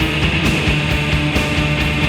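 Noise rock instrumental between vocal lines: distorted electric guitars over a driving drum beat.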